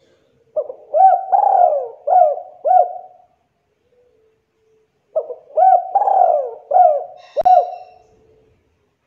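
Spotted dove cooing: two phrases of several quick, rolling coo notes, separated by a pause of about two seconds.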